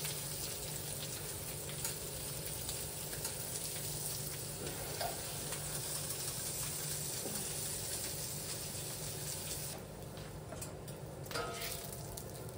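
Food frying, a steady sizzle with fine scattered crackles that falls away abruptly near the end.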